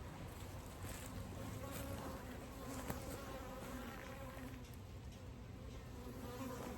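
Honeybees flying around the hives: a faint, wavering buzz.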